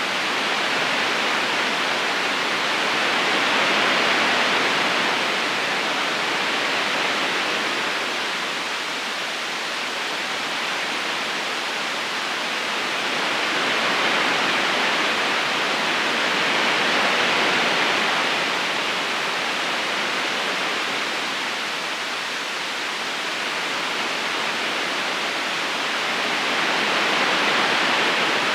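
River current flowing over stones: a continuous rushing hiss of water that slowly swells and eases every several seconds.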